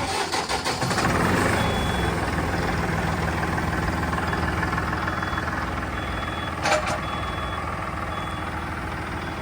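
A vehicle engine running steadily, with a faint high beep repeating about once a second like a reversing alarm. There is one sharp knock about two-thirds of the way in.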